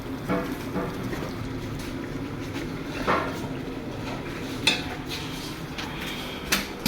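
Metal utensils clinking and knocking against a cooking pot, five or so sharp strikes spread out, over a steady low rumble.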